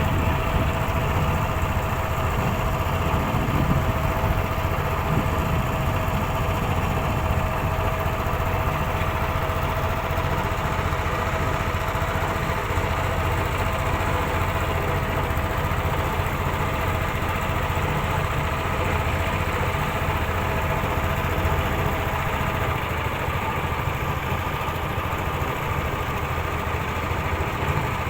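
A small engine running steadily with a continuous drone. Its steady hum fades and the low rumble drops about three-quarters of the way through.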